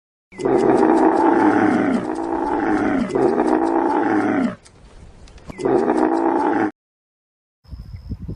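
An animal calling loudly: a run of three long calls that fall in pitch, then a fourth shorter call after a brief pause.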